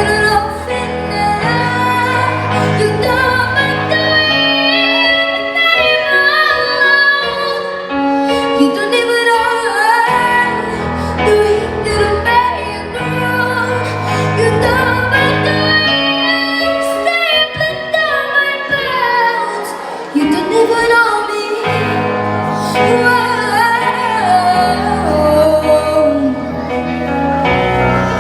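A young girl singing a pop song over a backing track, with long held and gliding notes.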